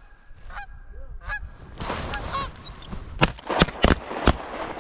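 Geese honking, with a flurry of honks about two seconds in, then four shotgun shots in quick succession, about three a second, near the end.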